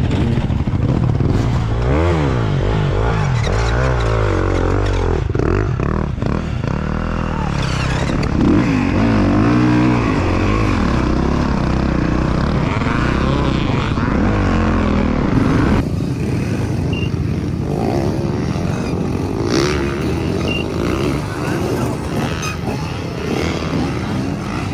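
Dirt bike engine revving up and backing off over and over under race riding, the pitch climbing and falling every second or so. The revving eases off about two-thirds of the way through.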